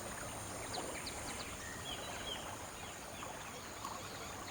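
Wild outdoor ambience: a steady high-pitched insect drone under many short, scattered bird chirps and whistles.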